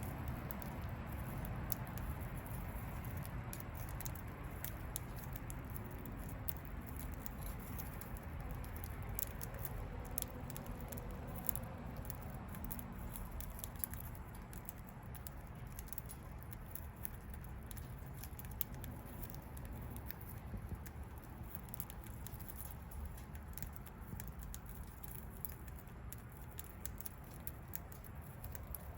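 Budgie pecking at seed, a scatter of small irregular clicks and ticks over a steady low background hum.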